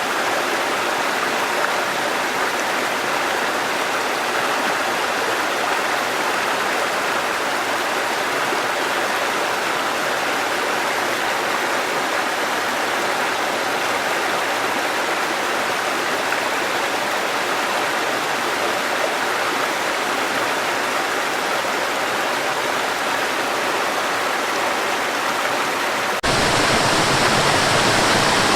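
Waterfall rushing in a steady, even roar of falling water. About 26 seconds in, it cuts abruptly to a louder, deeper rush of water.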